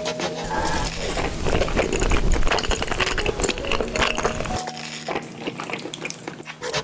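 Eating sounds: cutlery clinking and tapping on dishes along with chewing, a dense run of small clicks. A low hum drops out about two-thirds of the way through.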